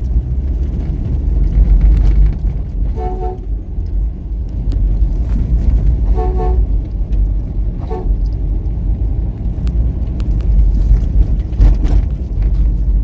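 A vehicle horn toots three times: once about three seconds in, again about three seconds later, then a very brief third toot. All of it is over a loud, steady low rumble.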